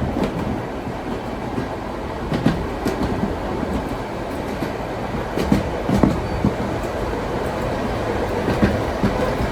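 Vintage steam-hauled train rolling along the track: a steady rumble of wheels on rails, with irregular knocks and clacks as the wheels pass over rail joints.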